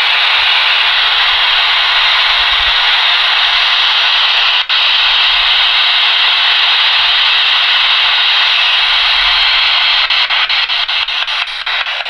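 A spirit box sweeping through radio stations, putting out loud, steady radio static. The static drops out briefly about halfway and breaks into rapid choppy stutters near the end.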